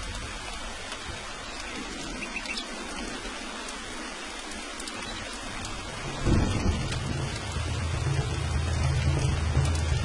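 Steady rain falling, with a low roll of thunder that starts suddenly about six seconds in and rumbles on.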